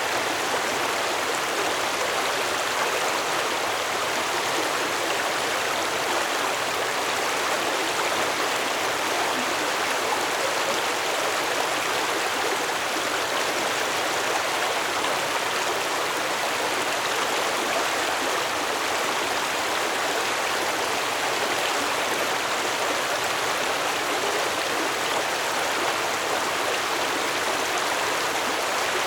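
Stream water flowing steadily, a continuous even rushing with no breaks or changes.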